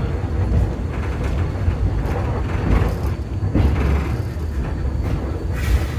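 Steam-hauled excursion train riding along the track, heard from on board: a steady low rumble of the moving car, with brief clattering noises every second or so.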